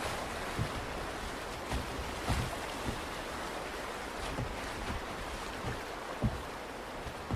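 Steady rush of river water, with a few short low thumps scattered through it.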